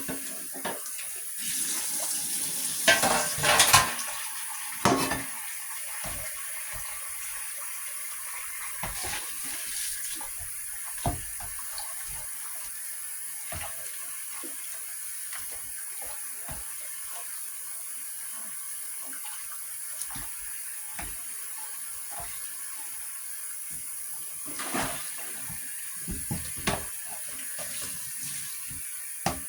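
Water running at a sink, a steady hiss, with scattered clinks and knocks of dishes or utensils, loudest around three to five seconds in and again near the end.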